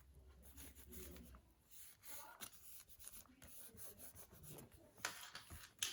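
Faint rubbing and handling of paper, a hand smoothing down a freshly glued paper piece, growing a little louder near the end.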